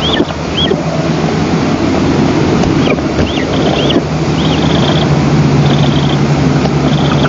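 Wind buffeting the nest-camera microphone over a steady low hum, with high, thin chirping calls from the eagle nestlings. The calls come as arched chirps every half second or so, with short buzzy notes, and are typical of begging at a feeding.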